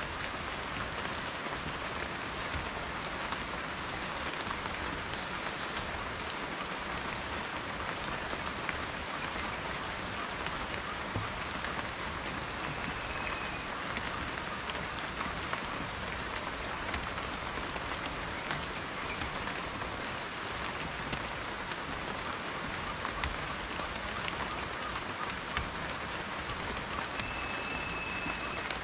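Steady rain falling, with many small drops pattering on a surface. Two faint, brief high whistles come through, about halfway through and again near the end.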